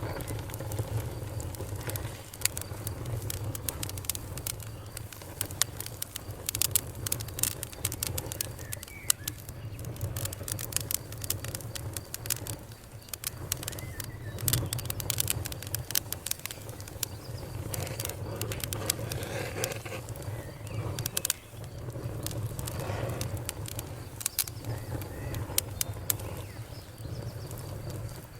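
Fire crackling: a dense, irregular run of sharp pops and snaps over a steady low rumble.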